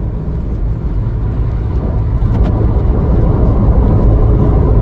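Steady low rumble of a car driving, engine and road noise together, growing gradually louder.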